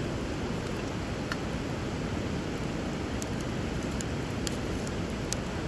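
Steady rush of flowing river water, with a few sharp pops and crackles from a bonfire burning over the water.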